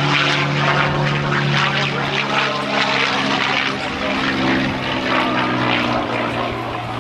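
P-51 Mustang's V12 piston engine and propeller in flight during an aerobatic display, a loud steady drone whose pitch drops a little near the end.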